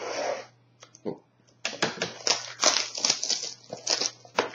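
Plastic wrapping on a trading-card box being torn off and crinkled: a short rip at the start, then a run of sharp crackles over the last few seconds.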